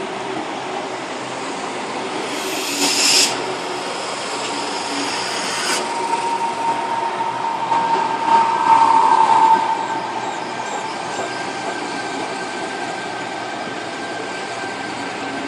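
Electric suburban train running on the tracks, with a brief high-pitched wheel squeal about three seconds in and a steady whine that swells in the middle.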